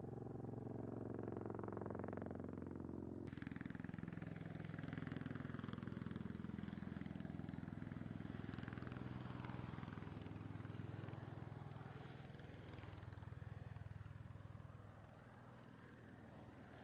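Engines and rotors of a V-22 Osprey tiltrotor aircraft droning with a steady low hum. About three seconds in the sound changes abruptly and a broad rushing noise joins the drone.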